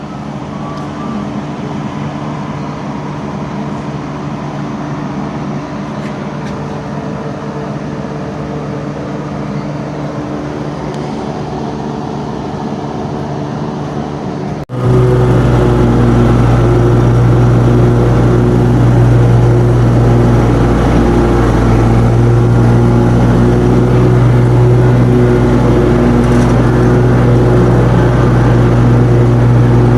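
Engine running steadily. About halfway through, the sound cuts abruptly to a louder engine with a stronger low hum, which runs on steadily.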